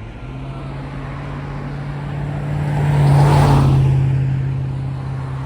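A motor vehicle passing close by, loudest about three seconds in, over a steady low engine drone that carries on after it.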